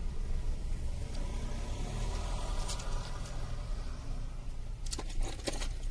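Steady low rumble with a few sharp clicks about five seconds in, as hard plastic and wooden lures are handled.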